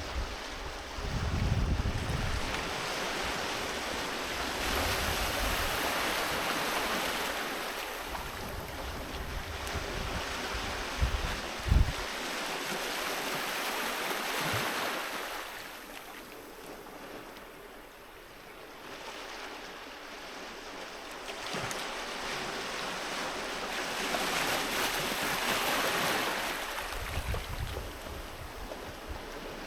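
Sea waves washing onto a beach, the surf swelling and falling back in about three slow surges roughly ten seconds apart. Wind buffets the microphone in low thumps, with two sharp bumps about eleven and twelve seconds in that are the loudest moments.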